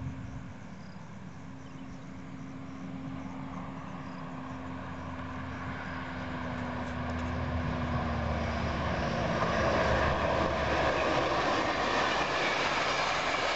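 Diesel locomotive hauling a passenger train approaching, its engine drone and the rushing noise of the train growing steadily louder as it draws near, the engine note sagging slightly in pitch.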